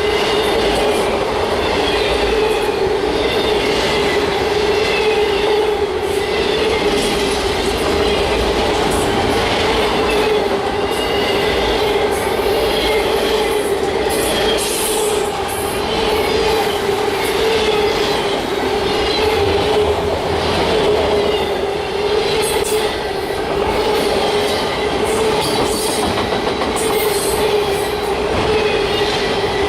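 Freight train cars rolling past at speed: continuous wheel-on-rail noise with a steady tone and repeated faint clicks, and no let-up.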